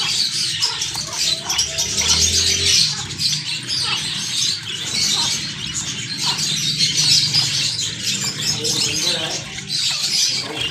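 White Java sparrows chirping continuously, many short high calls overlapping in a dense chatter, over a low steady hum.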